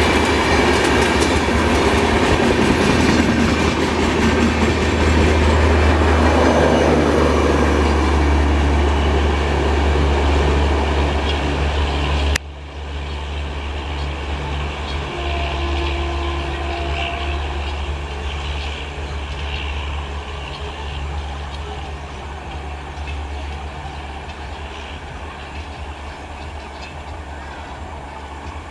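A passenger express of LHB coaches, hauled by electric locomotives, rolls past at speed with a steady wheel-on-rail clatter and a low hum. About halfway through the level drops abruptly, and the train noise then fades away as it recedes.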